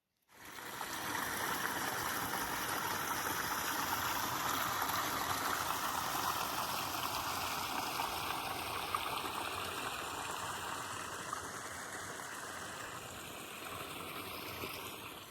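Steady rushing of running water, like a stream, fading in just after the start and fading out at the end.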